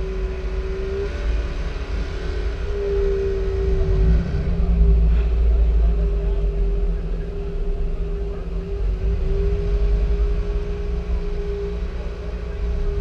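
A car's engine running at low speed while the car creeps along, heard from its own hood: a deep, steady low sound with a constant hum on top that wavers slightly in pitch.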